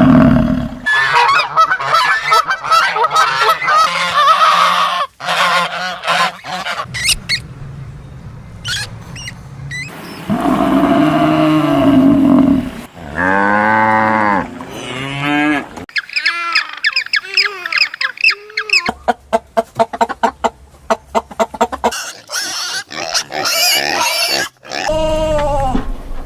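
Geese honking along with other waterfowl calls, heard as a run of separate short clips of repeated loud, arching calls and bursts of flock chatter.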